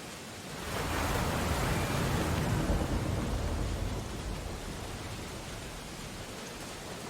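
Ocean storm surf: a wave breaks about half a second in, swelling to a rush of water that peaks over the next two seconds and slowly dies away, over a steady hiss of rain.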